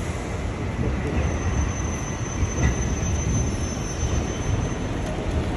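A Toyama streetcar (tram) running on its rails: a steady rumble, with a thin high whine held for a few seconds through the middle.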